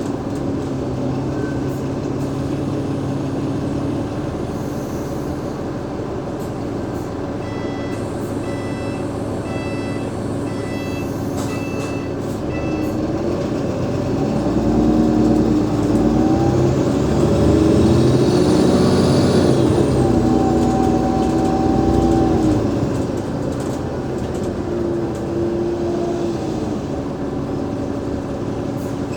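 Alexander Dennis Enviro500 MMC bus with a Cummins ISL8.9 diesel and ZF Ecolife automatic gearbox, its engine note climbing and stepping in pitch as it pulls away and loudest midway. A high whine rises and falls over a few seconds: the bus's 'weird sound'. Earlier, a rapid run of short electronic beeps lasts about five seconds.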